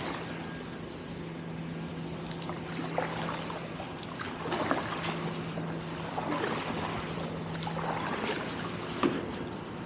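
Canoe paddles dipping and pulling through the water, with a few short splashes and drips, over a steady low hum.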